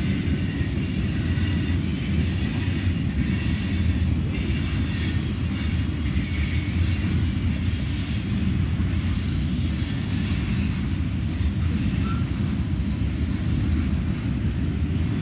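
A long CSX general merchandise freight train's cars rolling past at close range. There is a steady, loud rumble of wheels on rail, with faint high squeals from the wheels on and off.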